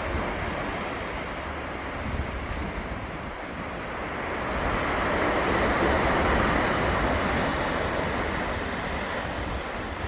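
Ocean surf: waves breaking and washing in a steady rush that swells to its loudest about halfway through, then eases back. Wind rumbles on the microphone underneath.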